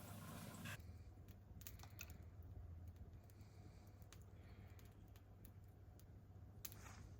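Faint, scattered light clicks and taps over near silence and a steady low hum. A hiss cuts off suddenly near the start.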